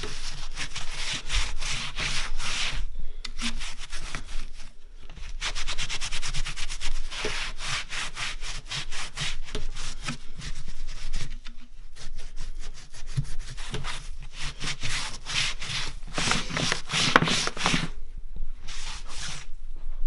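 Rapid back-and-forth scrubbing on the rusty metal skin of a steamer trunk, part of rust removal with muriatic acid. It comes in runs of fast strokes with short breaks between them.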